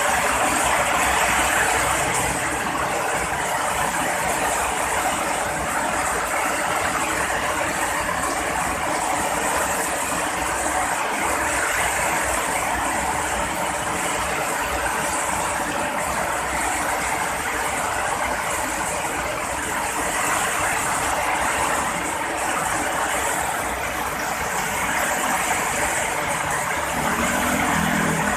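Heavy rain falling steadily, a dense continuous hiss with no letting up.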